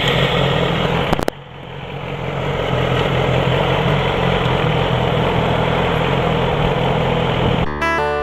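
Yamaha R6 sport bike's inline-four engine running steadily, with a click about a second in, after which the sound dips and a steady rushing noise builds back up. Acoustic guitar music starts just before the end.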